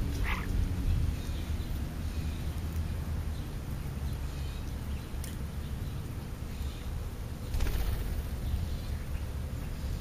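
A few short bird chirps, the clearest just after the start, over a steady low rumble, with a brief rush of noise about eight seconds in.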